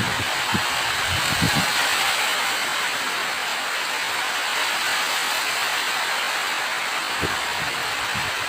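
Steady rain falling as an even hiss, with a few dull low thuds.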